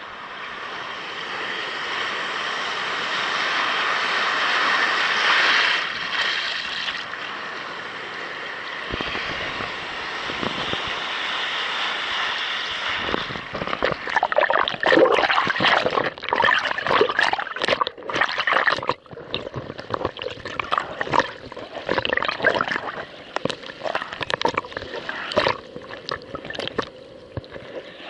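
Seawater rushing and washing around a kayak, a steady wash for the first half, then irregular splashes and slaps of small waves against the hull.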